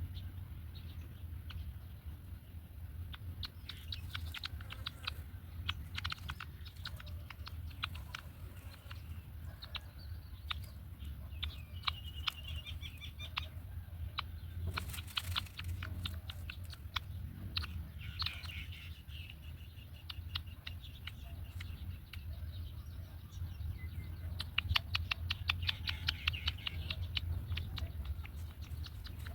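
Black-winged kites at the nest: several spells of thin, high calls among scattered clicks and rustles, with the densest clicking and calling near the end, over a steady low hum.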